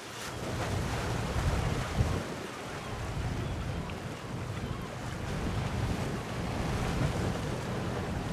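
Wind buffeting the microphone in uneven gusts over the steady wash of the sea.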